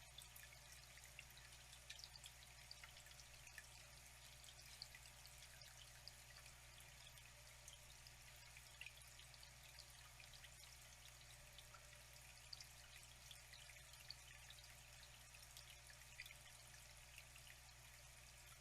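Flowing water trickling steadily and faintly, with many small drips and splashes scattered through it.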